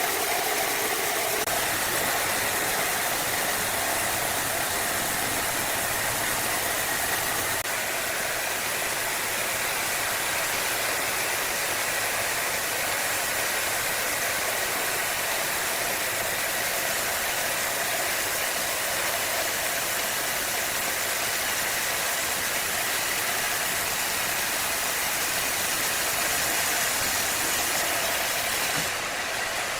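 Wood-cutting saw machine running steadily, a continuous mechanical whirring noise with an even hum.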